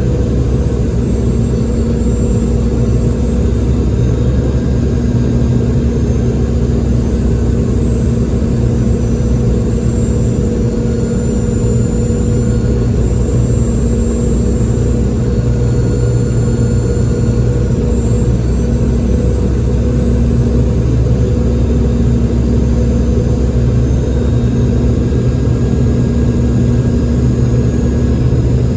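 Steady cabin noise of a Boeing 717 jet airliner, its turbofan engines running: a continuous low roar with a steady hum and a faint high whine that wavers slightly in pitch.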